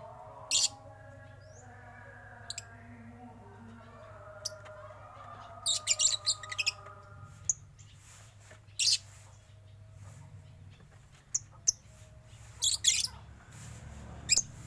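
Birds in a mixed aviary of starlings, zebra doves and lovebirds giving short, shrill chirps, scattered singly and in quick clusters of several calls, with a cluster about six seconds in and another near the end.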